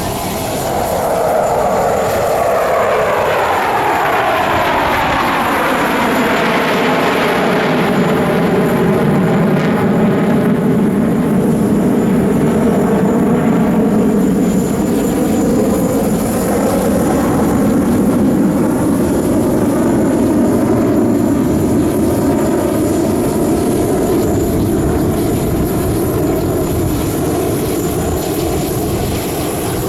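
Sukhoi jet fighters running loud as they pass, with a sweep of tones falling in pitch over the first several seconds, then a steady rumble.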